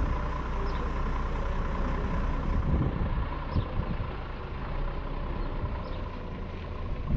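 Truck engine running steadily, with a few short knocks about three to four seconds in.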